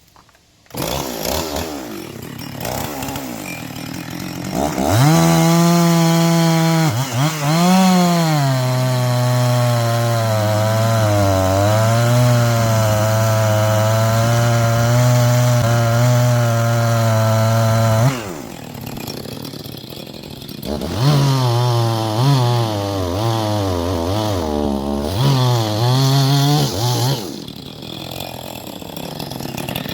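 Chainsaw running and cutting into a log. It revs up about five seconds in and holds a long cut of roughly thirteen seconds, its pitch sagging and recovering under load, then drops back to idle. It then makes a second, choppier stretch of revving and cutting, idles again, and revs up near the end.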